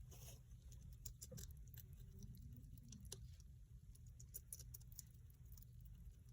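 A hedgehog eating: faint, irregular little clicks and crunches of chewing, several a second at times.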